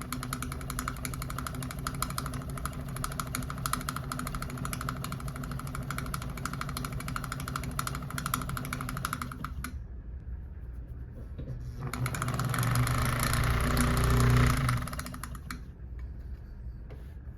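Willcox & Gibbs chain-stitch sewing machine stitching welt cord at regular speed, a steady fast rattle of stitches that stops about ten seconds in. It then runs again, louder, for about three seconds before stopping.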